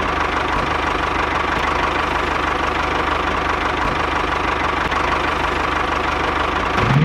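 An engine or motor running steadily with a fast, even beat, like a tractor engine idling.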